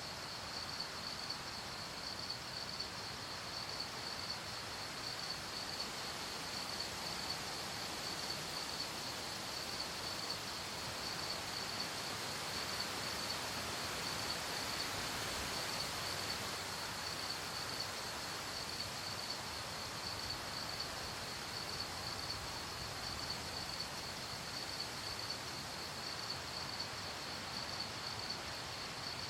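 Crickets chirping in a steady, rapid pulsing trill over a soft, even background hiss of night ambience.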